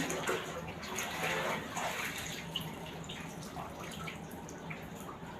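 Water running and splashing steadily, with a faint low steady hum underneath.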